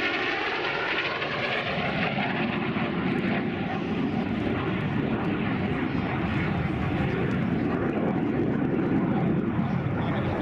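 The steady roar of an early jet fighter's turbojet engine as the jet flies past. Its sound sweeps and phases in the first second or so.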